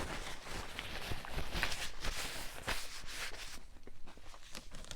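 Close-up crunchy chewing of a crispy fried chicken sandwich, a dense run of small crackles that eases off a little past halfway.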